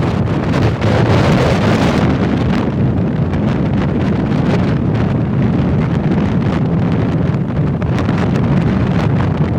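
Heavy wind buffeting on the microphone while riding, a loud steady rumble with frequent small clicks and knocks.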